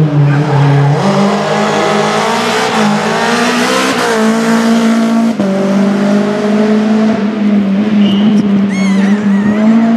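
Rally car engine running hard at high revs, its pitch holding and then shifting in steps as it goes through the gears. A brief high warbling squeal about nine seconds in.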